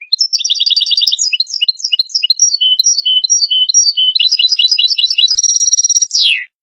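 European goldfinch singing a fast twittering phrase of rapid trills and short chirps, which ends in a quick falling note.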